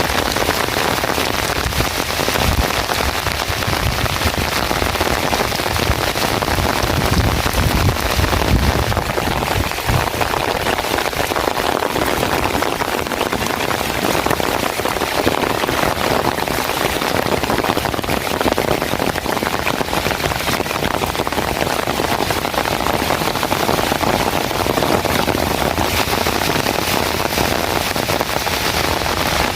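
Rain falling steadily, a dense even hiss of drops, with a low rumble underneath for about the first nine seconds.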